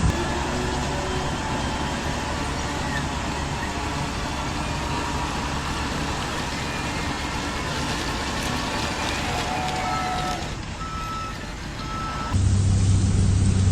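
RC model construction trucks running, a steady mechanical hiss of small motors and gears. Near the end a reversing beeper sounds three short beeps, then the sound changes abruptly to a louder, steady low engine hum.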